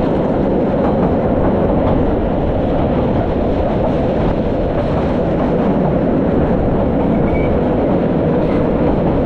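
Metre-gauge train running along the track, a steady, loud rumble of wheels and running gear.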